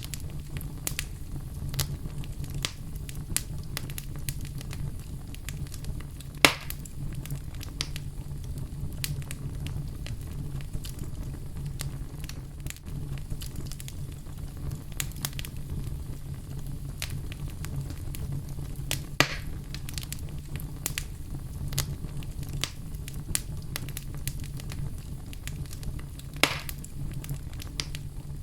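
Wood fire burning in a fireplace: a steady low rumble of flames with frequent small crackles and three louder pops about six seconds in, near the middle and near the end.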